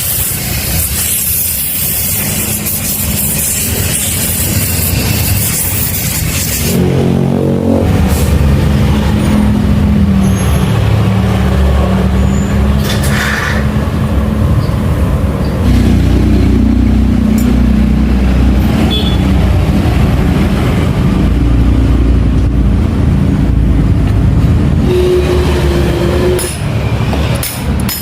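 A loud, even hiss for about seven seconds, then a machine motor starts and runs steadily with a low hum, shifting slightly in pitch midway.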